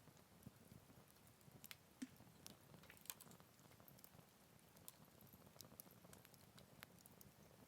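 Wood campfire burning quietly, giving off faint, scattered small crackles and snaps, with two louder snaps about two and three seconds in.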